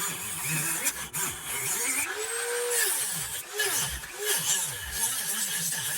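Dremel rotary tool cutting into a pinewood block. Its whine keeps rising and falling as the bit bogs down and speeds up against the wood, over a gritty grinding hiss.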